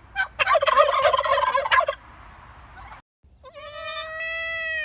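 Turkey gobbling once, a rapid warbling rattle lasting about a second and a half. After a sudden cut, a long, steady, high-pitched animal call begins near the end.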